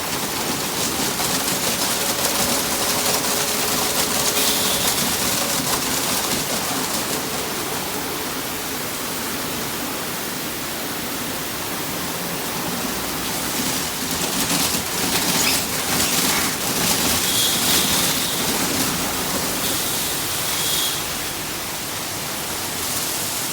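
Water spraying onto a car in a Ryko SoftGloss Maxx 5 soft-touch automatic car wash: a steady rush of spray. It surges louder and hissier a few seconds in and again past the middle, with a faint machine hum underneath.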